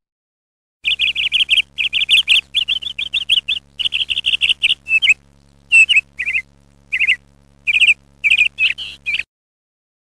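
Bird chirping: a rapid run of short, high chirps, several a second, broken by brief pauses in the second half. It starts about a second in and stops suddenly near the end.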